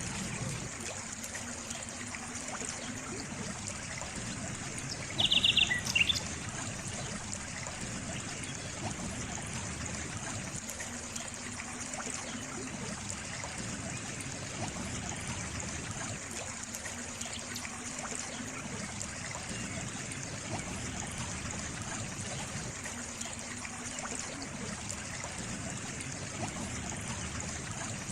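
Water trickling steadily, like a small stream. Just after five seconds in, a brief burst of rapid high chirps and a click stand out as the loudest moment.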